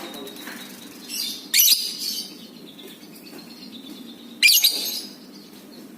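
Lovebird giving two loud, harsh screeching calls about three seconds apart, with softer chirps between them.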